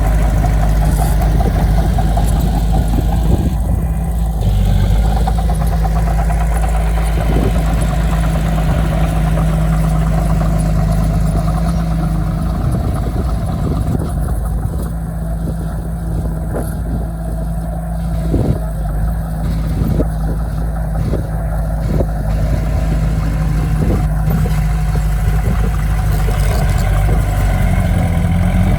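Diesel engine of heavy earthmoving equipment running steadily, with several sharp clanks scattered through.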